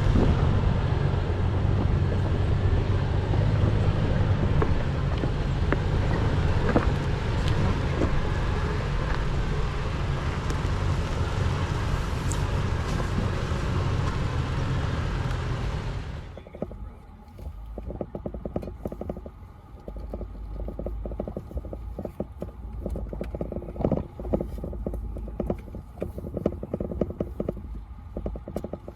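An off-road 4x4 crawling a loose-rock trail: its engine hums steadily under loud tyre and trail noise. About 16 seconds in the sound drops abruptly to a quieter stretch of rapid, irregular clicks and knocks, like rocks crunching and shifting under aired-down tyres.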